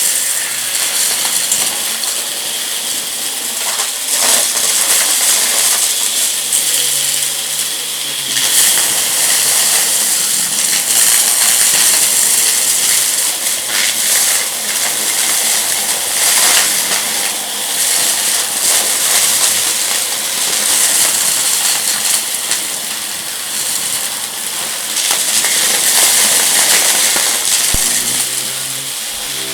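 Vacuum cleaner running on a rug, sucking up crunchy debris that rattles and crackles as it is pulled in.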